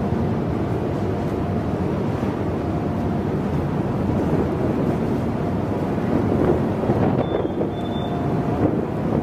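Steady rumble of a ferry underway, with wind buffeting the camcorder microphone and a faint held tone running through it.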